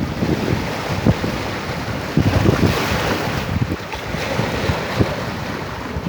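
Sea surf washing onto the shore in a steady rush that swells and ebbs, with wind buffeting the microphone in low, irregular gusts.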